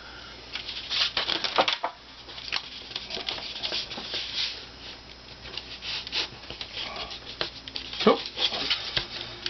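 Thin, dry veneer sheets and paper veneer tape being handled and pressed down, making irregular crackling and rustling, with a short falling squeak about eight seconds in.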